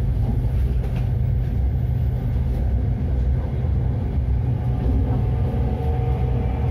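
Inside an SRT Red Line electric commuter train running on its elevated line: the steady low rumble of the car in motion. A faint steady whine joins in about halfway through.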